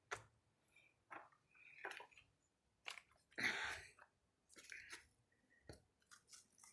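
Near silence broken by faint scattered clicks and rustles, with a short, louder rustle about halfway through: handling and scrambling noise from someone climbing a rocky slope with the camera in hand.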